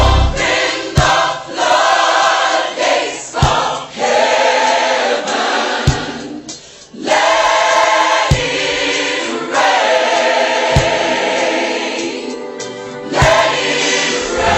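Gospel choir singing held, swelling chords over sparse accompaniment, with a soft low thump about every two and a half seconds.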